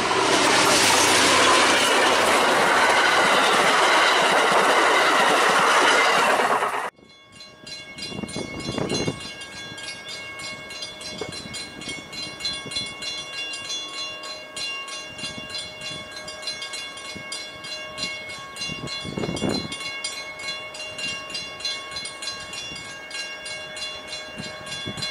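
A passenger train runs close past on the track, a loud rushing of wheels on rail that cuts off abruptly about seven seconds in. It gives way to a much quieter platform with faint steady tones and two brief swells of noise.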